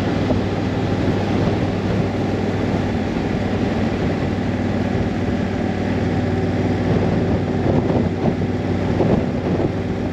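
Honda Africa Twin's parallel-twin engine running steadily while riding, with wind and road noise over it.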